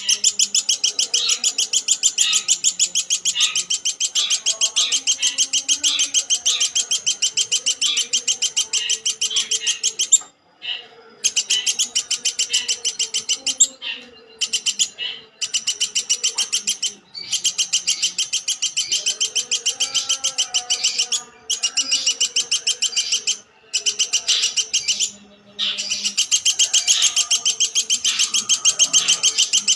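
Woodpecker giving long, rapid runs of sharp high-pitched notes, about seven or eight a second, broken by several short pauses.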